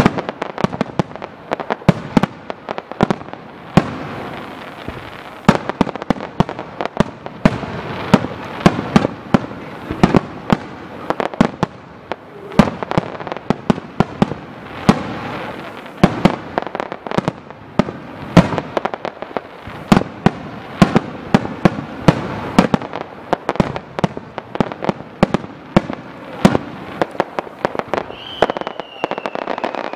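Rapid-fire fireworks barrage: aerial shells bursting in quick succession, several sharp bangs a second over a constant rumble of echoing reports.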